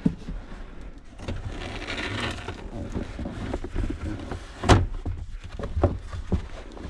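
Car floor carpet and plastic interior trim being pulled back and handled by hand: a rustling scrape, then a few knocks and one sharp click about two-thirds of the way in.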